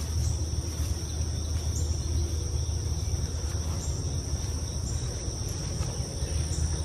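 Steady low machine hum with a constant high-pitched whine above it.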